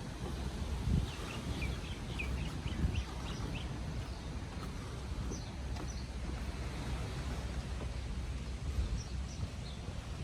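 Small birds chirping: a quick run of short, high calls about a second in, with a few more scattered later, over a steady outdoor noise with some low rumbles.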